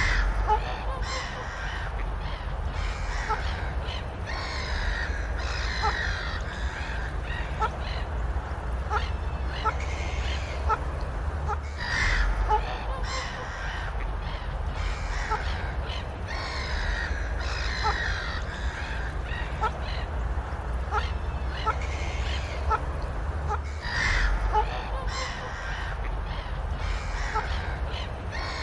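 Birds calling over and over, many short calls, over a steady low rumble.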